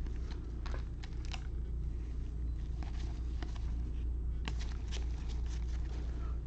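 Baseball trading cards being handled and flipped through by hand: scattered light clicks and taps, with a cluster about a second in and another near the end. A steady low hum runs underneath.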